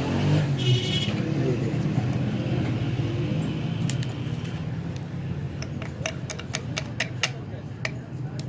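Small metal parts clicking and tapping against each other, a dozen or so sharp clicks in the second half, as steering box components are handled and fitted, over a steady low hum.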